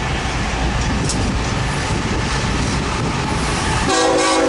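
BNSF intermodal freight train rolling past slowly with its locomotives in dynamic braking, giving a steady, dense rumble and rail noise. Near the end the low rumble drops away and a steady chord of sustained tones sets in.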